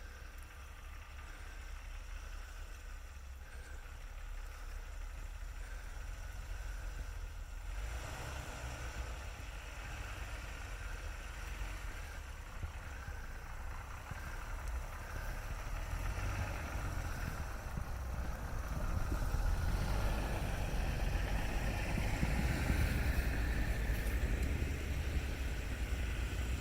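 Jeep engine running at low revs while crawling off-road, with a steady low rumble. It grows louder about eight seconds in and louder again near the end.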